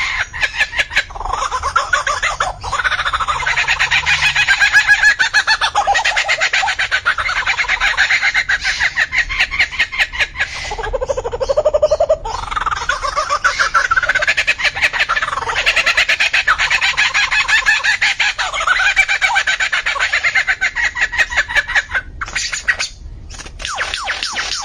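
A bird singing a long, varied song: a rapid, continuous stream of chattering chirps and whistles that keeps changing pattern, with a short break near the end.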